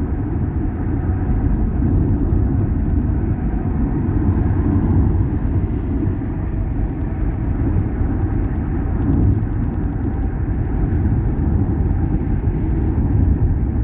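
Steady low rumble of a car driving along a road, with tyre and engine noise that holds even throughout.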